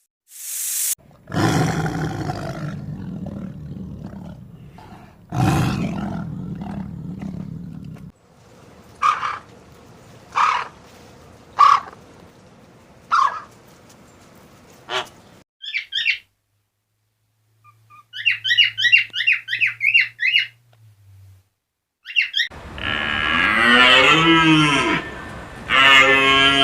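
A string of calls from different animals: two loud low calls, then a run of five short calls, a burst of rapid warbling chirps, and near the end a loud call whose pitch rises and falls.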